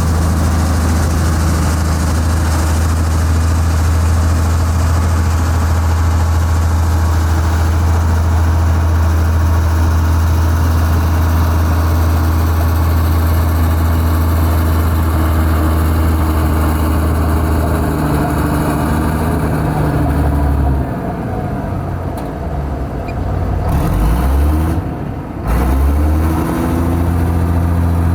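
Heavy diesel engine of a construction machine running steadily at a constant speed, then its engine speed falls and rises several times in the last third as the throttle changes.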